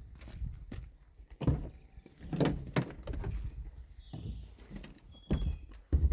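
A series of knocks and thuds, about five sharp ones, over a steady low rumble.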